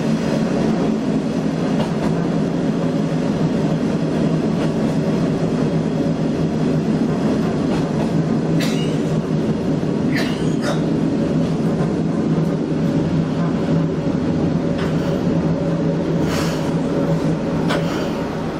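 Sanriku Railway diesel railcar running on the rails as it slows into a station, heard from the driver's cab: a steady low engine hum with a few scattered sharp clicks from the wheels and track.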